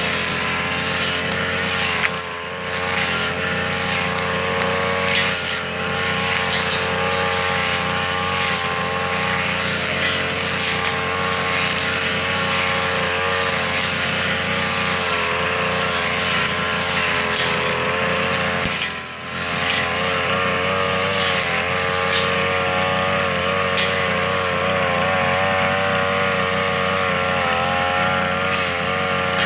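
Tanaka two-stroke brush cutter engine running steadily at high speed, its carburetor freshly cleaned and readjusted. The engine sound dips briefly twice, about two seconds in and again near the middle.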